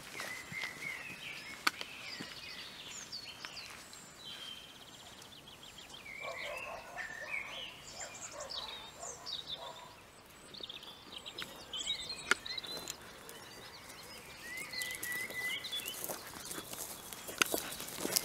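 Small birds singing, many short chirps and warbling phrases overlapping, with a few sharp clicks now and then.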